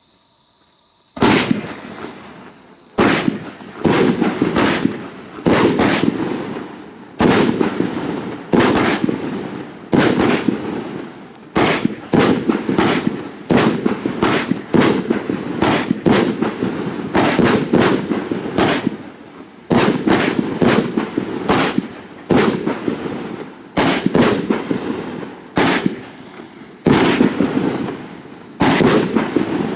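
38 mm fireworks cake (Funke Colosso, 25 shots) firing shot after shot, about one every second or so, starting about a second in. Each shot is a sharp bang that trails off into a rush of noise before the next one.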